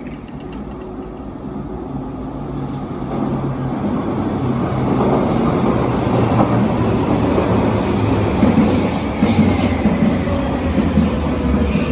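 Berlin U-Bahn large-profile train coming in and running past, growing louder over the first five seconds and then staying loud.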